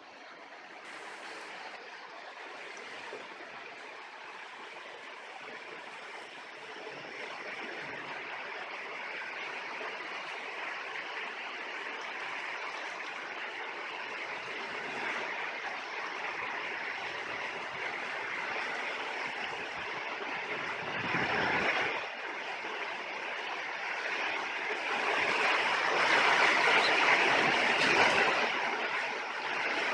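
Rushing water, a steady hiss with no pitch that slowly grows louder, swelling twice, loudest about three quarters of the way through.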